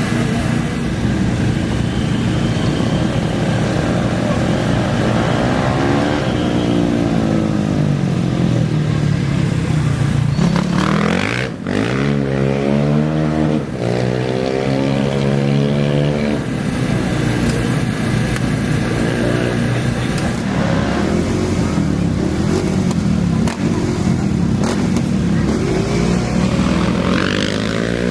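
Off-road race engines running and revving. The engine note drops over several seconds, then climbs sharply about eleven seconds in, and more revving follows.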